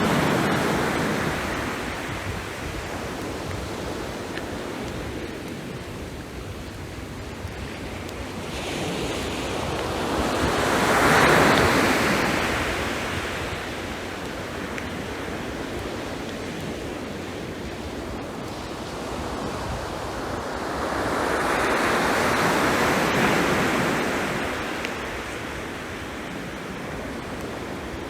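Waves breaking on a beach: a noisy wash of surf that swells up and dies away slowly, with two big swells, the first the loudest.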